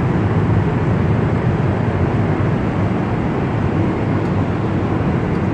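Steady low rushing cabin noise inside a Boeing 777 airliner in flight.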